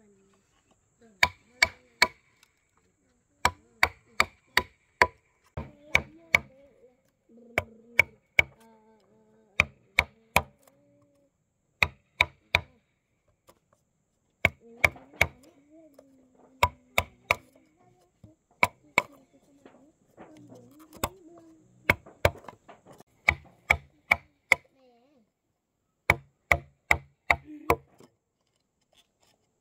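Repeated sharp strikes in quick groups of two to four blows, each blow with a short ringing tone, like a metal tool hitting something hard.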